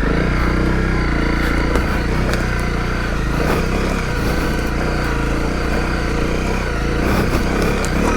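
Honda CRF250L's single-cylinder four-stroke engine running at steady low revs.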